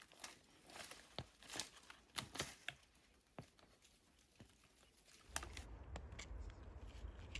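Faint outdoor sound on a trail camera's microphone: scattered small clicks and crackles, like rustling or light footfalls. About five seconds in, a steady low rumble with hiss starts abruptly and carries on.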